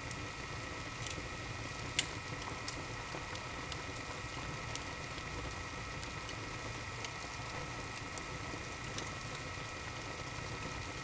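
Wood fire burning in an open fireplace, crackling steadily with irregular small pops and a sharper pop about two seconds in.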